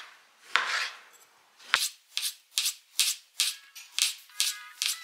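One more knife stroke through onion on a cutting board, then a thump. About two seconds in, background music with a quick shaker-like beat starts.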